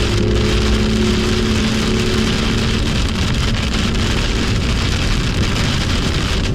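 BMW M2's engine running at speed on a soaking wet track, under a steady hiss of rain and water noise. The engine note fades about two to three seconds in and starts to come back near the end.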